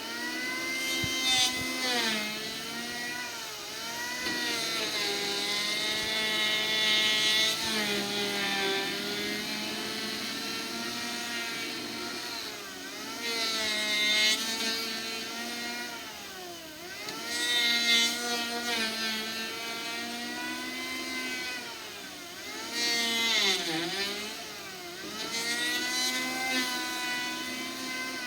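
An engine running steadily, its pitch sagging and then recovering every few seconds, as under changing load.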